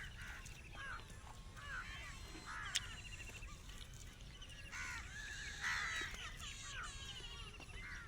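Several birds chirping and calling, with short rising and falling notes and rapid trills, over a low steady rumble. One sharp click comes about three seconds in.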